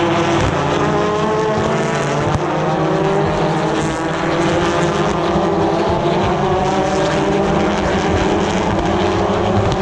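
Pack of BTCC touring cars racing past, several turbocharged four-cylinder engines at once, their pitches rising and falling as they accelerate and brake.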